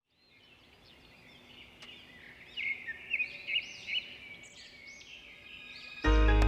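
Small songbirds chirping and twittering, fading in, with a cluster of louder chirps midway. Music starts suddenly near the end.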